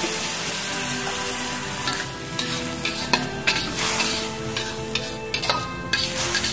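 Chillies, tomato and lemongrass sizzling in a hot wok with a little water just poured in. A metal spatula stirs and scrapes against the pan, with sharp clinks from about two seconds in.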